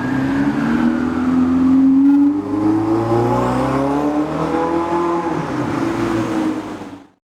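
Lamborghini engine accelerating, its note climbing steadily for about five seconds and then easing off.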